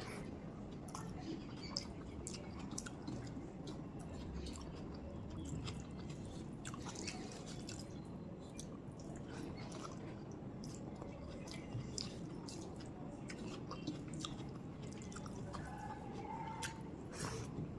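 Close-up chewing and wet mouth sounds of a person eating rice and curry, with frequent small clicks and smacks.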